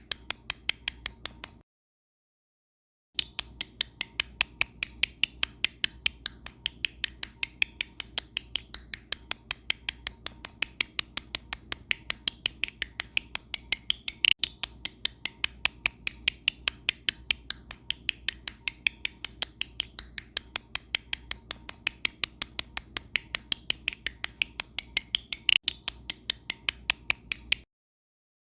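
Sharp clicks repeating at an even, fast pace, several a second, over a faint low hum, cutting out to dead silence twice.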